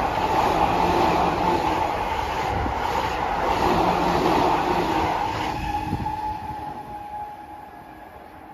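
Electric commuter train running through the station at speed without stopping, its wheels rumbling on the rails. The noise fades away about six to seven seconds in as the last car passes.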